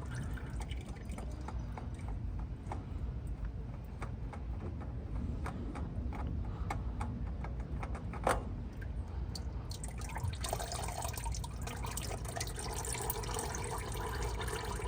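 Engine oil dripping and trickling from a loosened oil filter into a drip pan, in quick, irregular drips, with one sharper tick about eight seconds in. About ten seconds in, the sound becomes a fuller, steadier trickle.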